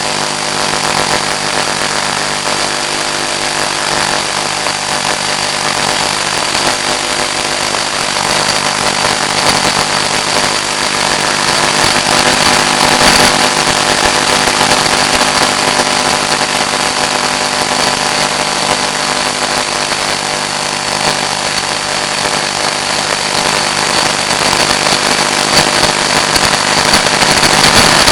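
Steady hiss and hum on the sound channel of an analog FPV video link, with several constant tones running through it, growing louder toward the end.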